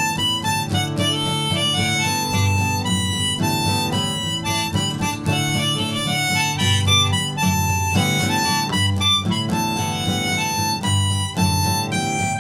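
Harmonica playing a melodic solo of held and moving notes over strummed acoustic guitar, an instrumental break in a folk song.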